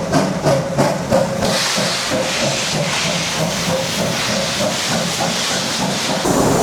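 Steam locomotive chuffing in a quick even beat over a steady hiss of steam. The beats are strongest in the first second and a half, then softer under the hiss.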